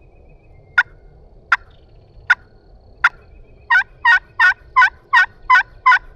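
Hand-operated turkey call worked close by: four short, sharp clucks about three-quarters of a second apart, then, just past halfway, a quicker run of loud yelps, used to try to make a gobbler answer.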